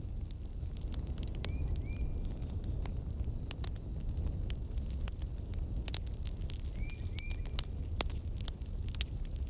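Wood fire in a fireplace crackling, with irregular sharp pops over a steady low rumble of flames. A pair of short high chirps comes twice, about a second and a half in and again near seven seconds.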